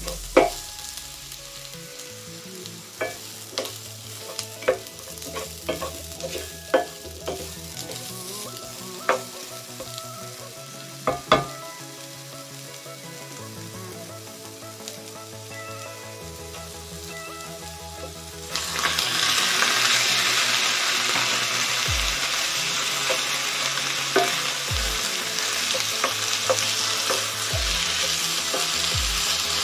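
A wooden spatula stirs chopped vegetables frying in an enamelled cast-iron skillet, knocking and clacking against the pan over a light sizzle. About 18 seconds in, raw chicken breasts go into the hot pan and a much louder, steady sizzle takes over.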